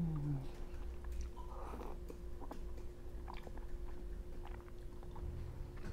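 Close-up chewing of a mouthful of ramen noodles: soft wet smacks and small mouth clicks.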